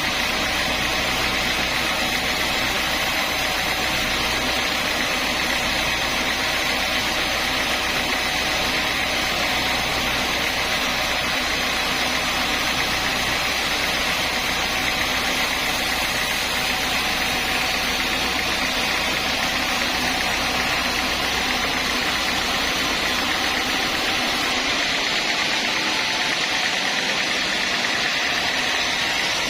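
Sawmill saw machinery running steadily with a constant whine and hum. About 24 seconds in the low rumble drops away while the saw noise carries on.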